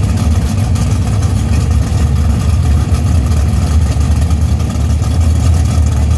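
Drag race cars' engines idling at the starting line, a loud, steady low rumble without revving.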